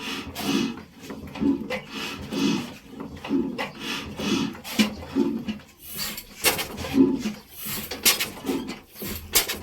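Ruston Hornsby oil engine being hand-cranked: a rough, uneven rhythm of low puffs about once or twice a second, with sharp metallic clicks and clanks between them.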